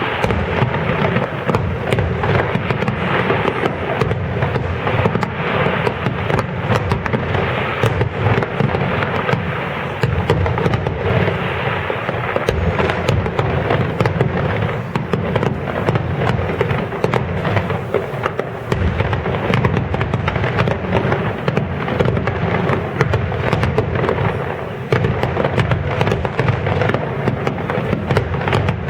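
Aerial fireworks going off in a dense, unbroken barrage: overlapping booms and crackling bursts with no pause.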